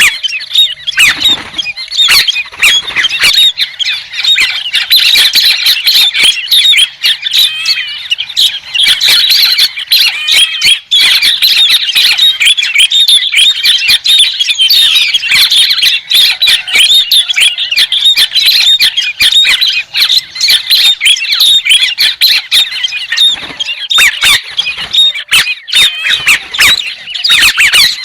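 Calls of the bird known in Vietnam as 'héc soan' (white-headed bird): a loud, dense, continuous stream of short, quick calls with sharp clicking notes among them, of the kind played as a bird-trapping lure.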